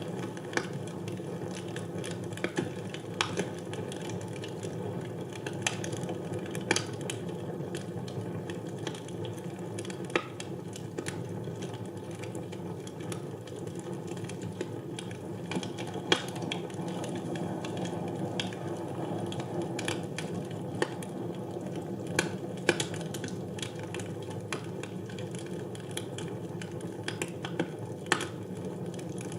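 Wood fire burning in a fireplace: a steady low rushing hiss with frequent sharp, irregular crackles and pops.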